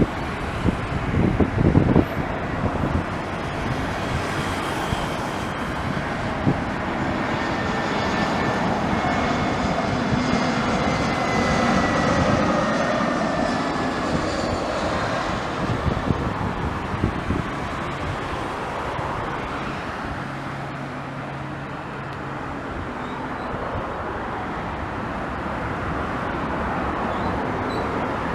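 Jet airliner on landing, its engines running with a whine that glides down in pitch as it passes. Wind buffets the microphone for the first two seconds.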